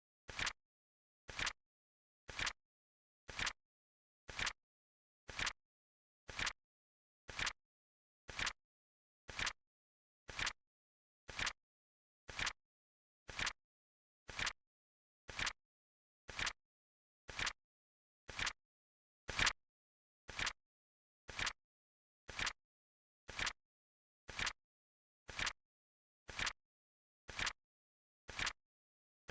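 Flip clock countdown timer ticking: a sharp mechanical-style click exactly once a second as the seconds flip, with silence between clicks. One click about two-thirds of the way through is a little louder than the rest.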